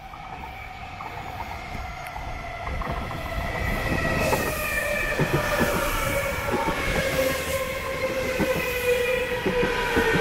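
A local train approaching, growing louder over the first few seconds, with steady tones that slowly fall in pitch and a scatter of clicks from the wheels on the rails.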